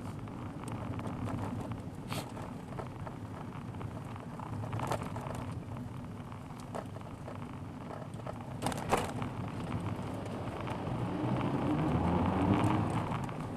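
Car driving, heard through a dashboard camera's microphone: a steady low engine and road rumble with scattered sharp clicks and knocks, and a louder swell in the engine sound near the end.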